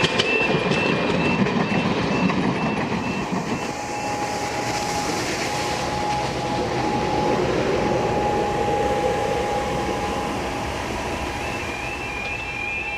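A train running along the track: a steady rushing rumble with wheel clatter, and a steady tone partway through.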